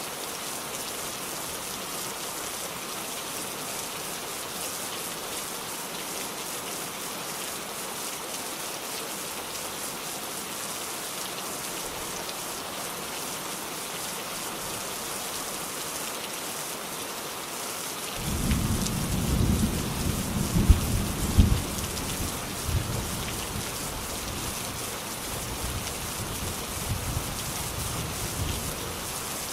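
Steady rainfall hissing, with a thunderclap breaking in about two-thirds of the way through: a sudden low rumble with two or three sharp loud cracks, then rolling off while the rain continues.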